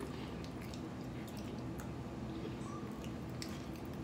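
People chewing french fries, with soft, scattered wet mouth clicks over a steady low background hum.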